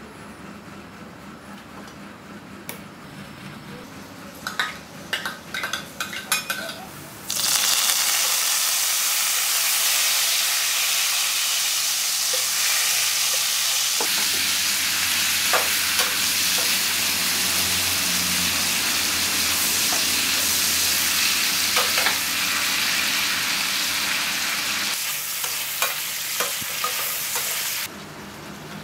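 Shrimp frying in hot oil in a metal pan: a loud, steady sizzle starts suddenly about seven seconds in, with a spatula clinking and scraping against the pan as they are stirred. Before that there are only a few light clinks, and the sizzle cuts off shortly before the end.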